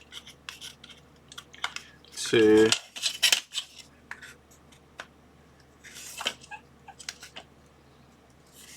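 Slotted wooden parts of a paintbrush holder stand being pushed together by hand: scattered light clicks and knocks of wood on wood, with a sharper knock about three seconds in.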